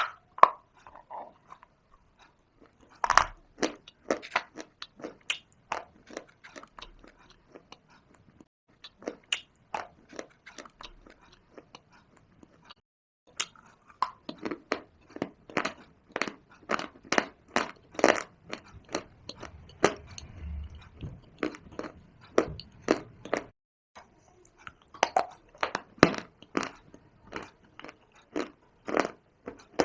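Close-miked chewing of dry shale clay: runs of sharp, crisp crunches as pieces are bitten and ground between the teeth, with short pauses between mouthfuls.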